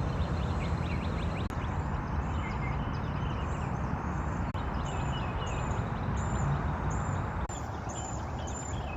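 Birds chirping over a steady background hiss and low rumble; from about five seconds in, one high call repeats evenly, nearly twice a second.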